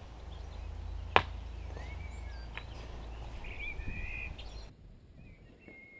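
Birds chirping with short gliding calls, over a low rumble that cuts off suddenly near the end. A single sharp click about a second in is the loudest sound.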